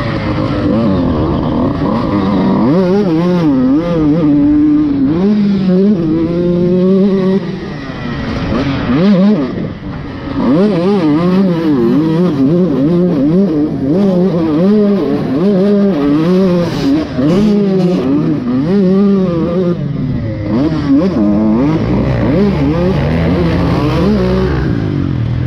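Dirt bike engine being ridden hard, its pitch rising and falling over and over as the throttle is opened and shut. There is a brief easing off about eight to ten seconds in.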